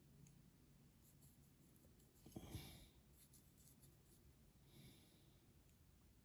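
Near silence with two faint, brief scratchy rustles, one about two and a half seconds in and a fainter one near five seconds: small handling sounds of work on a diecast car's base plate.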